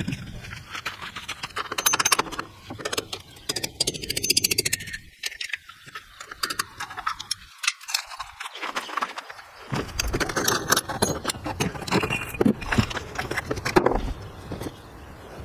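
Small metal objects clinking and rattling in irregular runs of clicks, quieter in the middle and busier again in the last third.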